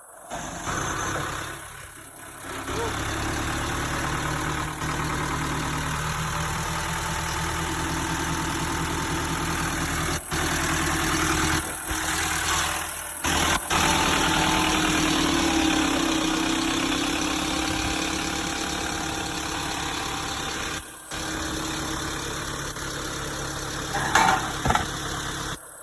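Truck engine running steadily at idle, with its pitch briefly rising and falling about midway through.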